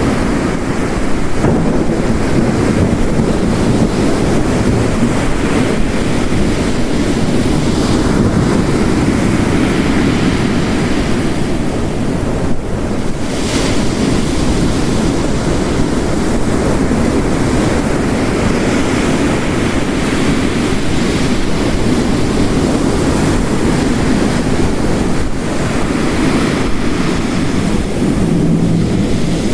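Heavy rain and ocean waves crashing on a coast, blended into one steady wash of noise that swells and eases a little every few seconds.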